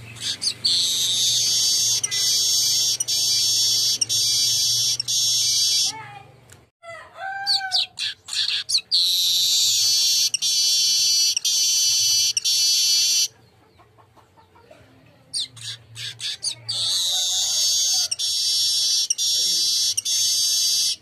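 Golden-headed manyar (weaver) singing. There are three long, buzzy, high songs of several seconds each, broken into even pulses about twice a second, with short chirps between them.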